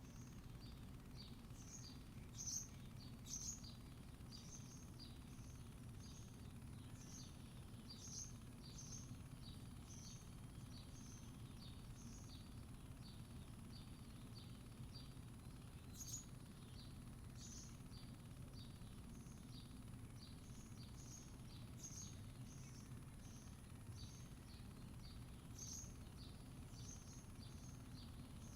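Faint outdoor ambience: a small bird chirping over and over, about two short high chirps a second, over a steady low hum of background noise.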